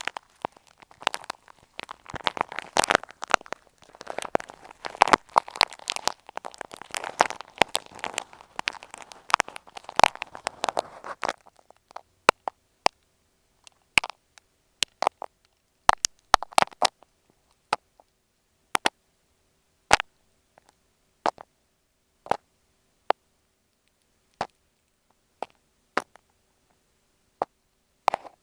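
Ear pick scraping and tapping against an earphone microphone, heard close up. There is dense, crackly scratching for about the first eleven seconds, then single sharp clicks about a second or two apart.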